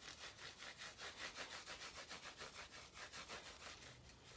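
Quick back-and-forth rubbing strokes on a guitar's wooden fretboard, about six a second, as it is buffed by hand after a lemon-oil conditioning.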